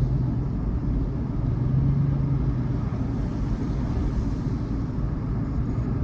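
Ice cream truck driving on a snowy road: steady engine hum over low road and tyre rumble, the hum briefly stronger about two seconds in.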